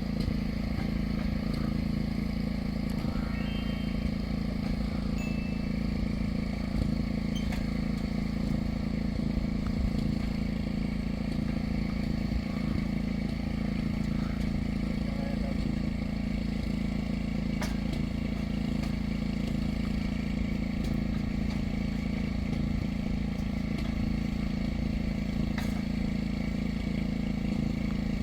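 A steady, unchanging low engine-like drone, with a few faint clicks and clatters over it.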